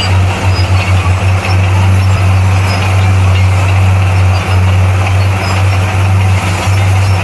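Bulldozer's diesel engine running steadily, a continuous low drone.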